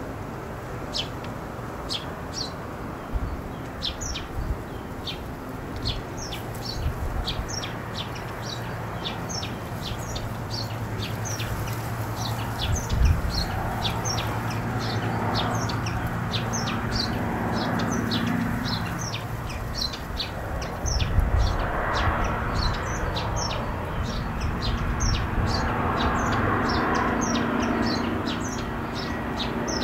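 A small bird chirping over and over, short high falling chirps about two or three a second, over steady background noise.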